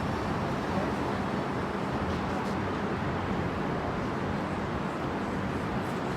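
Steady outdoor rumble with an even hiss, from sandstorm wind and street traffic.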